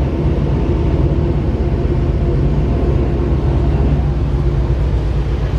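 Steady low rumble of a moving locomotive-hauled electric passenger train, heard from inside the carriage as the wheels run on the track.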